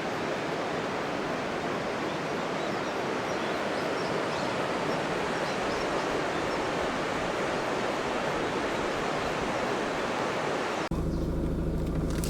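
Steady rushing of the Kuma River in flood-scoured channel, an even hiss of running water. Near the end it cuts off suddenly to a low vehicle engine hum.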